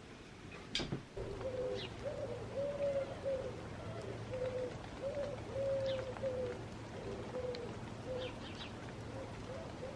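A pigeon cooing in a long run of low, repeated phrases, with a few faint chirps from small birds. There is one sharp click about a second in.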